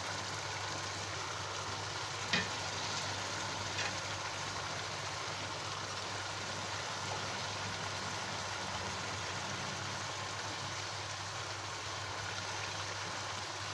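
Chicken and tomato masala sizzling steadily in a nonstick wok while fresh fenugreek (methi) leaves are stirred in with a metal spatula. A light click of the spatula against the pan comes about two and a half seconds in, and a fainter one near four seconds.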